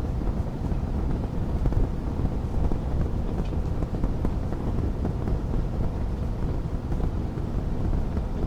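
Wood fire crackling in a fireplace: a steady bed of fine crackles over a low rumble.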